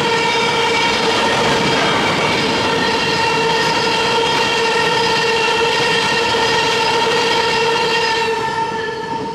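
Locomotive air horn sounding a long, loud held chord over the noise of a moving train, fading away near the end.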